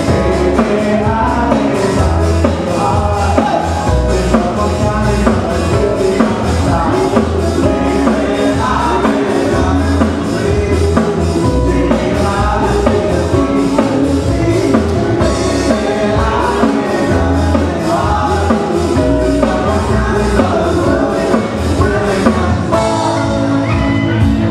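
Live band playing a song with a steady drum-kit beat.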